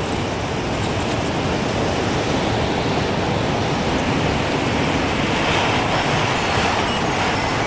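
Gusting wind rushing steadily, swelling into a stronger gust in the second half, with faint high tinkles of a wind chime starting near the end.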